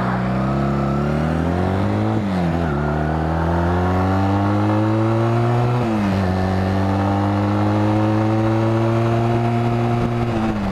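Honda Rebel 250 motorcycle engine accelerating away from a stop, climbing in pitch through the gears. Its pitch drops at upshifts about two seconds in and about six seconds in, and again at the very end.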